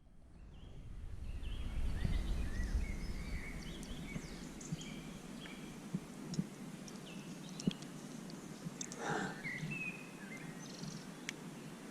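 Small birds chirping and twittering in short repeated notes, with one louder rising call about nine seconds in. A low rumble swells over the first few seconds, and scattered small clicks are heard throughout.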